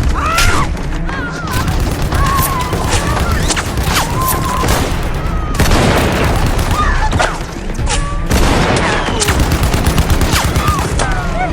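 Battle sound-effects mix of dense, continuous gunfire: rifle shots and machine-gun bursts overlapping without a break, for a WWI trench-warfare scene.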